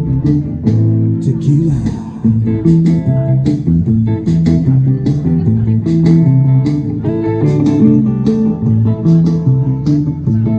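Guitar music with a bass line, plucked notes in a bluesy style, playing steadily.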